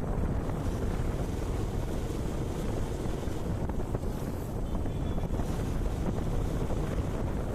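Steady wind rushing over the microphone of a moving motorcycle, with the low rumble of the ride underneath.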